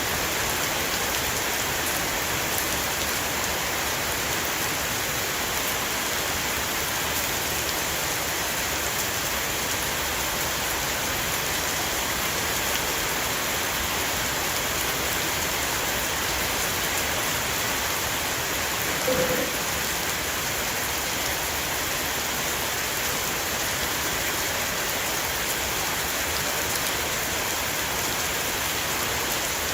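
Heavy downpour of rain falling on a roof, a steady, even hiss. One brief, slightly louder sound cuts through about two-thirds of the way in.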